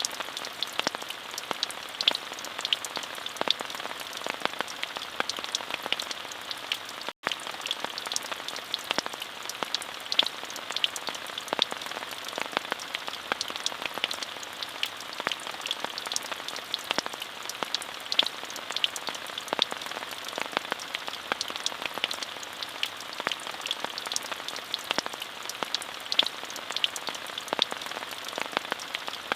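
Steady rain: an even hiss with many crisp individual drops tapping close by. The sound drops out for a split second about seven seconds in.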